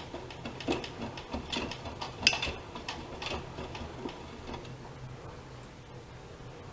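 Privileg Dynamic 7420 washing machine with irregular mechanical clicks and knocks for the first four seconds or so, then a steady low hum.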